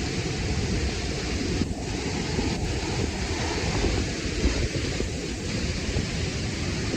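Waterfall pouring onto rocks: a steady rushing of water with a heavy low rumble underneath.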